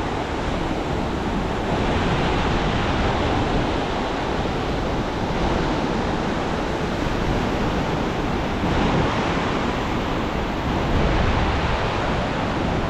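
Ocean surf breaking and washing up the beach, a steady rushing noise that swells and eases, with wind buffeting the microphone.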